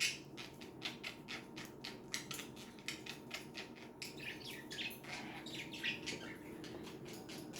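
Pet budgerigars chattering faintly: a run of rapid small clicks, then short chirps a few seconds in.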